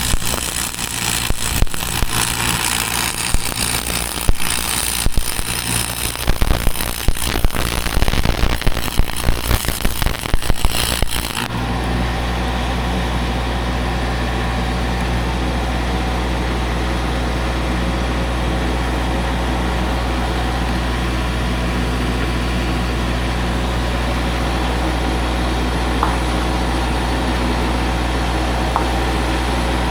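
Arc welding crackling and sizzling on a cracked steel boom pin for about eleven seconds, then stopping abruptly. An engine runs steadily underneath throughout and carries on alone once the welding stops.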